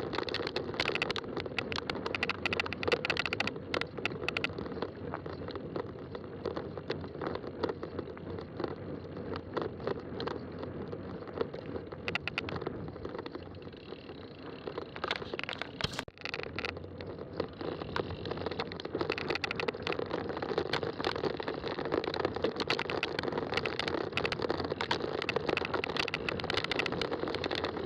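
Fat-tire bike riding along a trail: a steady rumble from the wide tires with a dense crackle of small clicks and rattles, easing off a little around the middle.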